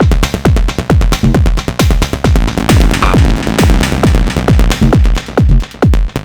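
Sonic Potions LXR-02 digital drum machine playing a live techno beat: a steady kick drum with a falling pitch about twice a second, under fast hi-hat and percussion hits. A short noisy swell rises about halfway through.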